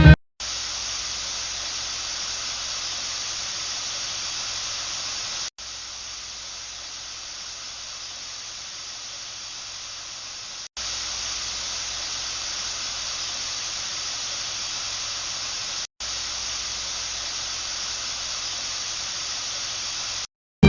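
Steady hiss of background recording noise, with no music. It runs in four even stretches, cut off briefly three times; the second stretch is slightly quieter.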